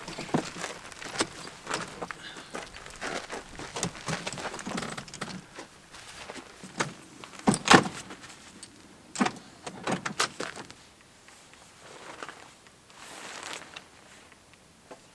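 Clicks, knocks and rustling of things being handled, with one louder knock about eight seconds in; the sounds thin out over the last few seconds.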